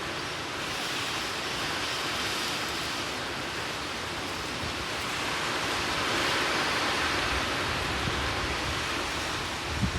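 Rain falling in a strong wind, a steady rushing hiss that swells with the gusts, about a second in and again around six seconds. A low rumble builds near the end.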